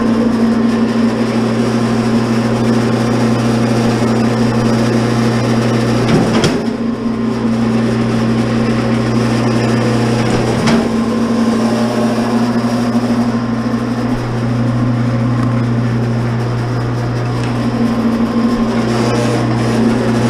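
Commercial electric wire stripper's motor running steadily, with a steady low hum, as heavy service wire from a power pole is fed through to strip its insulation. Two sharp clicks come about six and eleven seconds in.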